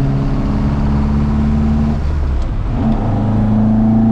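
A 1975 Ford Mk1 Escort's four-cylinder engine on twin Weber carburettors pulling under acceleration. The note climbs, dips briefly about two seconds in, then climbs again.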